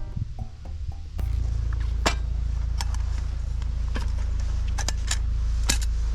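Harley-Davidson XL883L Sportster's 883 cc air-cooled V-twin engine running with a steady low rumble. It starts abruptly about a second in and cuts off suddenly at the end, with a few sharp clicks over it.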